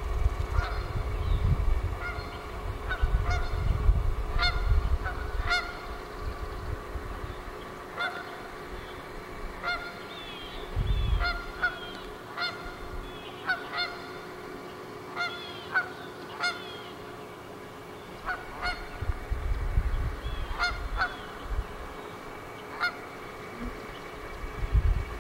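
Birds giving short honking calls over and over, with low gusts of wind rumbling on the microphone now and then.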